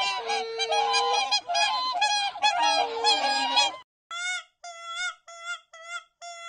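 A flock of farm birds calling, many loud calls overlapping one another. About four seconds in it cuts abruptly to a single animal giving short, high-pitched calls roughly twice a second.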